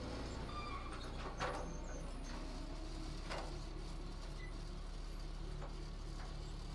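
Heavy construction machinery's diesel engine running steadily, with a couple of sharp metallic knocks about a second and a half and three seconds in.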